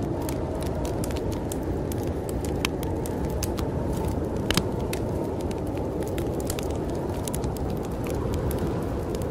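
Wood fire crackling in a fireplace, with frequent irregular sharp pops, the loudest a little before halfway, over a steady low rush of storm wind.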